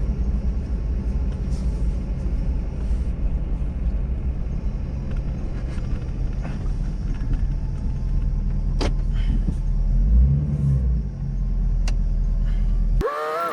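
Ford Super Duty's 6.7 L Power Stroke V8 diesel running as the truck drives, a steady low rumble that rises briefly about ten seconds in.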